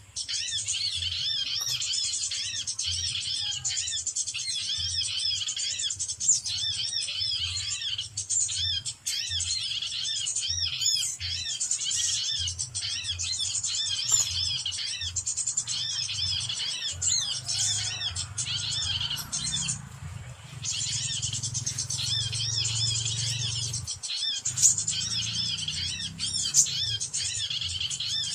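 Small birds chirping rapidly and continuously in high, quick repeated notes, with a short break about twenty seconds in.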